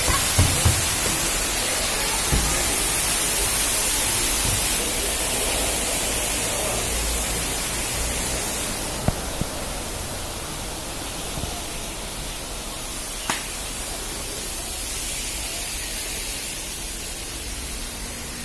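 Steady hiss, brighter and louder in the first half and easing off after about nine seconds, with a few short clicks scattered through it.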